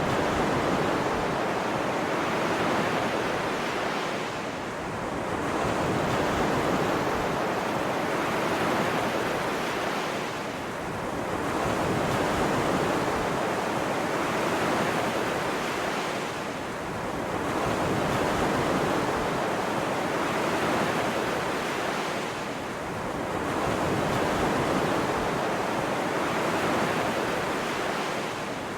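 Ocean surf: an even rush of breaking waves that swells and eases about every six seconds.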